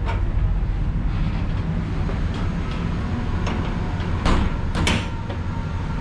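Steady low rumble of an LHB express train coach running along the track, heard from inside the coach near its toilets. A few sharp knocks sound over it, the loudest two about four and five seconds in.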